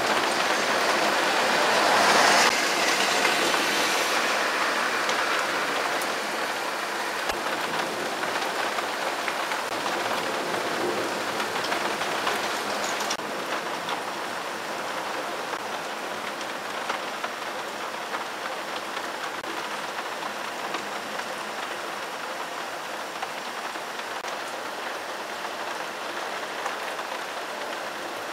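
Rain falling steadily in a thunderstorm, a loud hiss that slowly grows quieter, with a brief surge about two seconds in.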